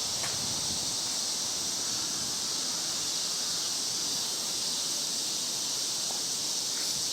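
Steady high-pitched insect chorus, an unbroken shrill hiss with no pauses or strokes.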